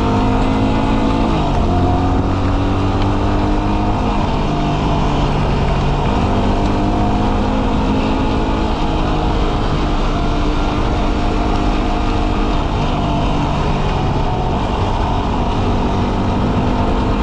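Dual sport motorcycle engine running under way, its note dropping and shifting in pitch a few times as the revs change, over a steady rush of noise.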